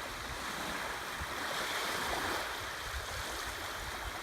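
Ocean surf washing up the beach, a steady rush that swells to its loudest about two seconds in and then eases back.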